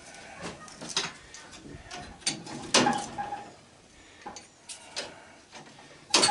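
Irregular metal clanks and clicks of scrap sheet tin and copper being handled while an AC condenser unit is stripped, some knocks ringing briefly. A loud clank comes about three seconds in and another just before the end.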